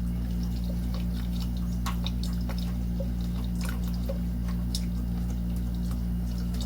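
Water dripping and trickling, with scattered small clicks of handling, over a steady low electrical hum.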